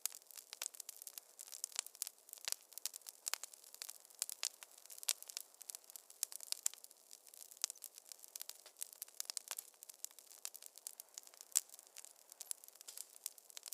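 Wood fire in a fireplace crackling, with a steady scatter of sharp irregular pops and snaps over a faint hiss.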